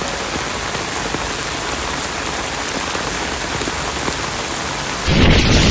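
Heavy rain pouring steadily on surfaces. About five seconds in it cuts suddenly to louder wind buffeting the microphone.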